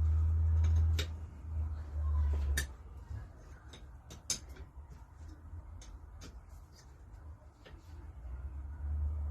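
Scattered light clicks and taps of metal parts and tools being handled while an engine is dismantled, with a low rumble in the first few seconds and again near the end.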